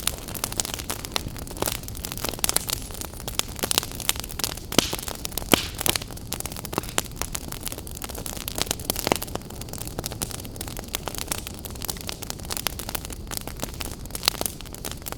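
Wood fire in an open fireplace, crackling with many irregular sharp snaps and a few louder pops over a steady low rumble and hiss.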